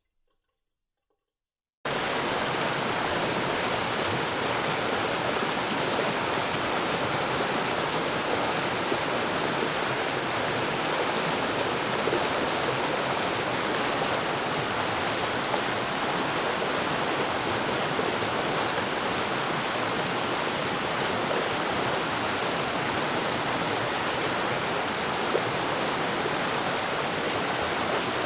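Rushing stream water, a steady, even rush that starts suddenly about two seconds in after a short silence.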